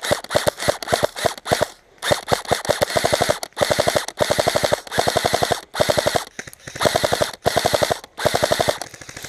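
Airsoft rifle firing: a string of quick single shots, then repeated full-auto bursts, each a fast rattle lasting about half a second to a second.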